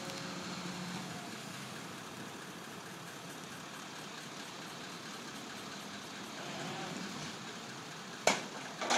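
Crane truck's engine running steadily while it lifts the fallen power pole, with a sharp knock a little over eight seconds in and a smaller clatter just after it.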